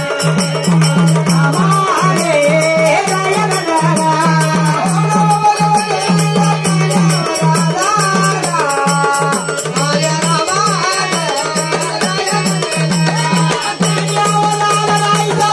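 Marathi gondhal folk music: a steady pulsing drum beat under a melody that bends and glides in pitch.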